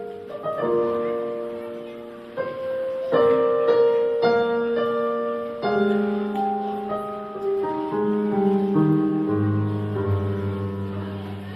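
Slow, gentle piano introduction to a recorded song: held chords with a melody over them, and deeper bass notes coming in near the end.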